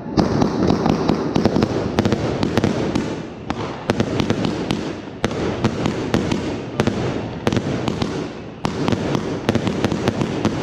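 Fireworks bursting close overhead: a rapid, unbroken barrage of bangs and crackling.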